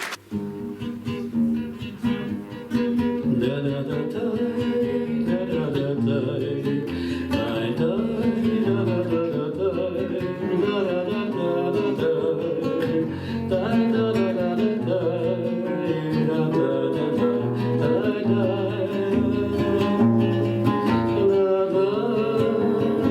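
Acoustic guitar played alone, strumming and picking a run of changing chords as the introduction to a song.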